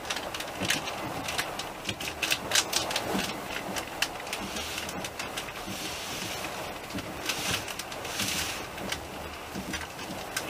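Passenger train running, heard from inside the carriage: a steady rumble with irregular clicks and rattles, and a couple of brief rushing swells.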